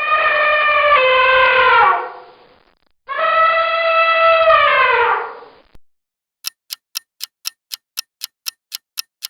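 Elephant trumpeting: two long brassy calls, each falling in pitch at the end. After them, a clock-like countdown ticks at about four ticks a second.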